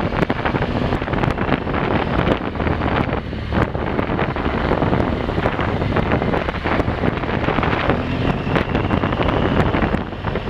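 Motorcycle engine running steadily while riding, buried under heavy wind buffeting on the microphone, with frequent short knocks and rattles.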